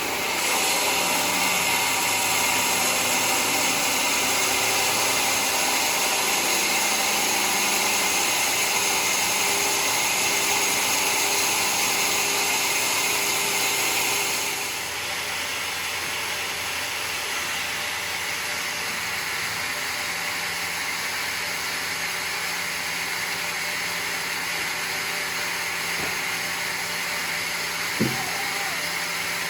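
Sawmill running, its saw cutting through mahogany wood with a steady, even noise. About halfway through the noise steps down a little and carries on steadily. There is one sharp knock near the end.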